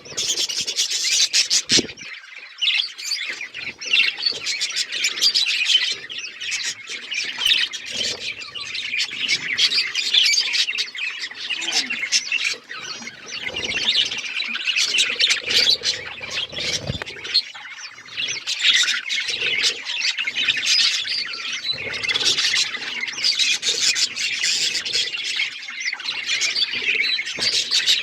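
A flock of budgerigars chattering: many overlapping chirps, warbles and squawks without a break.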